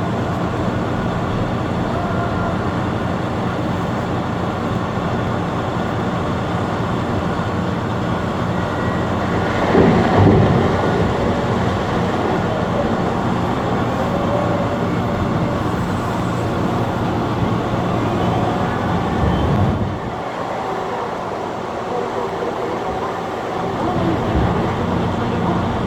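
Caterpillar 992G wheel loader's diesel engine working steadily. About ten seconds in there is a louder rumbling surge, and the sound drops off a little about twenty seconds in.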